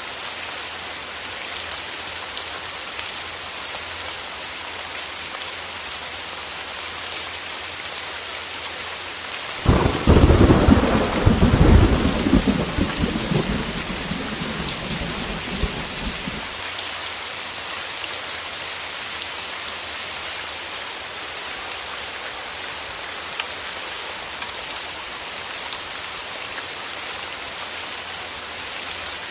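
Heavy rain falling steadily against a window, with a thunderclap that breaks suddenly about a third of the way in and rumbles on for several seconds before fading back into the rain.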